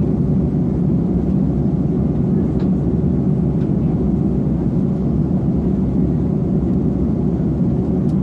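Airbus A330 cabin noise in flight: a steady, even low drone of the engines and the airflow around the fuselage, heard from inside the aircraft.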